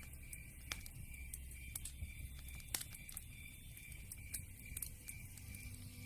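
Wood fire crackling: scattered sharp pops and snaps of burning logs over a low, steady rumble of the flames.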